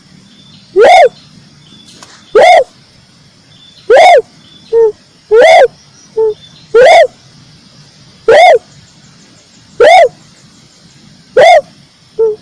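Loud recorded calls of a tekukur merah dove: a short rising-and-falling note repeated about every one and a half seconds, with a few shorter, lower notes in between.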